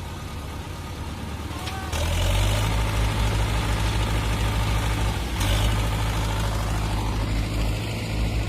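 Tractor engine running steadily, getting louder and rougher about two seconds in, with a brief dip a little past five seconds.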